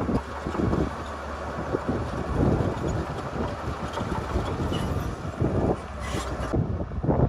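Heavy diesel earthmoving machinery running steadily, a low engine hum with irregular low thumps and rumbles over it.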